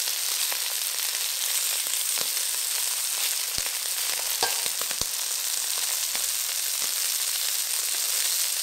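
Cornflour-coated prawns frying in hot oil in a wok: a steady sizzle, with a few sharp clicks around the middle.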